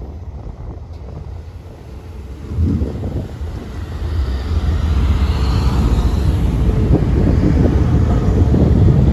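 VL11 electric locomotive hauling a train of tank cars, approaching: a low rumble that swells about two and a half seconds in and keeps getting louder.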